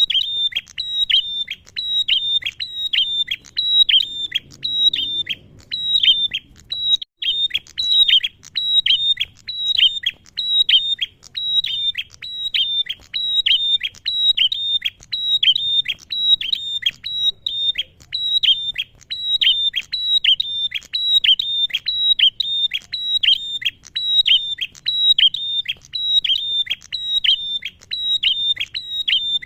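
Male prenjak (prinia) calling: a rapid, unbroken run of sharp, high chirps, about three a second, each note dropping in pitch.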